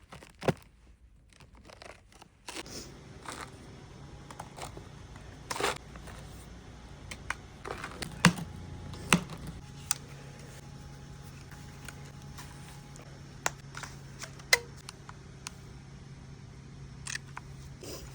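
Scattered sharp clicks and knocks over a low rumble; a steady low hum sets in about halfway through.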